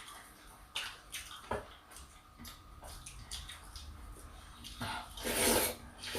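Wet, close-up eating sounds of stew and rice: scattered smacks and clicks, then a longer, louder noisy rush about five seconds in.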